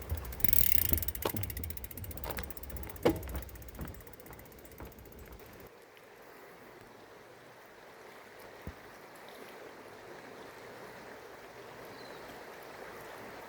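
Bicycle rear-hub freewheel ticking rapidly as the bike coasts, with low wind rumble and a few knocks. About halfway through the ticking stops, leaving a quiet steady hiss.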